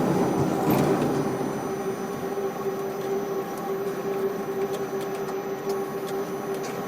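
Ship-to-shore crane machinery running: a steady hum with a constant whining tone and a few light clicks.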